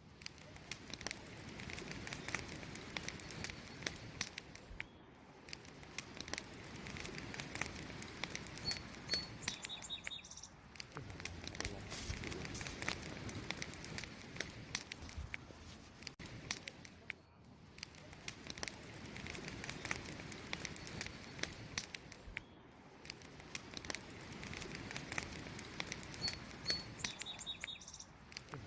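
Wood fire crackling steadily, with many sharp pops and snaps over a soft rushing hiss. A bird chirps briefly twice, about a third of the way in and again near the end.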